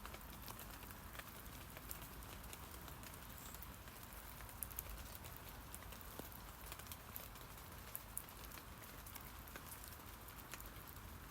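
Rain falling on tree leaves: a steady faint hiss with scattered individual drops ticking, a few louder drops landing near the middle and about two-thirds of the way through.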